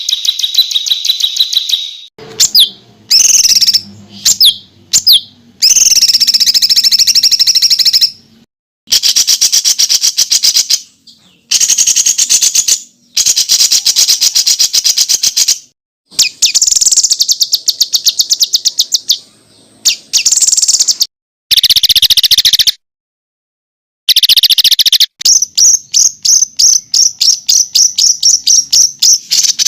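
Songbird song in rapid-fire high trills and chattering bursts, in runs of one to several seconds with abrupt silent breaks between them; it ends with a fast train of short repeated notes. These are the packed 'tembakan' phrases of a masteran tutor recording for competition songbirds.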